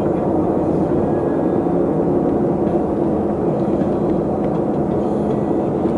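Steady vehicle engine and road noise while driving, with a low hum that holds its pitch.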